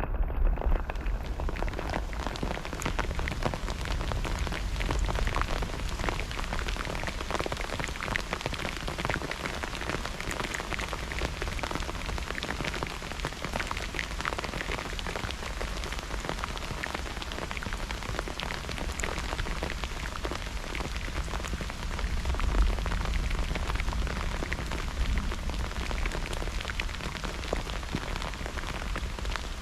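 Steady rain falling in a thunderstorm, a dense hiss full of close drop ticks. A low rumble swells briefly about two-thirds of the way through.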